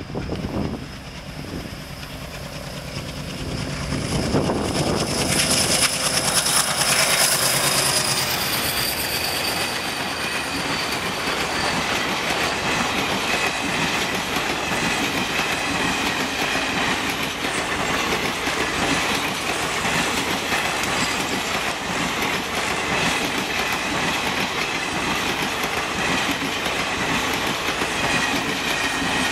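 A diesel-hauled express train passing at speed: the locomotive goes by loudest a few seconds in, then the coaches follow with a steady clickety-clack of wheels over rail joints and a high whining ring from the wheels.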